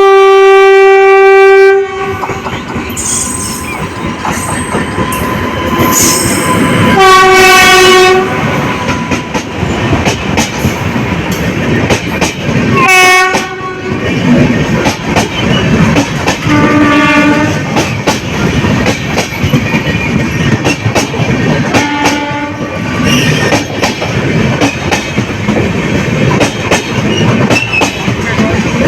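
Indian Railways Patna–Kashi Jan Shatabdi Express sounding its horn five times, two loud blasts near the start and three fainter, lower ones later. Its wheels clatter and rumble over the rail joints throughout.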